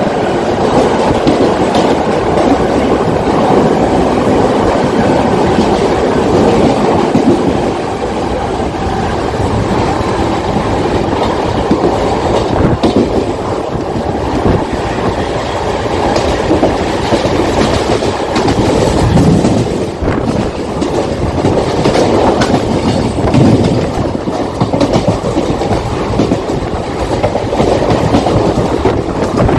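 Mumbai suburban local train (electric multiple unit) running at speed on the Western line: a steady, loud rumble of wheels on the rails, with short sharper knocks now and then.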